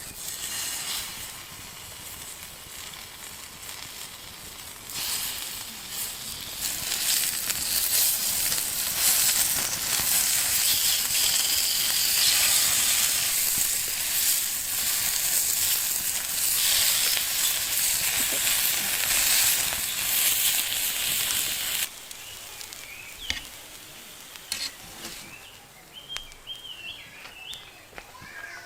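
Food sizzling in a frying pan at a camp stove or fire, a steady hiss that grows louder after a few seconds and cuts off abruptly about two-thirds of the way through.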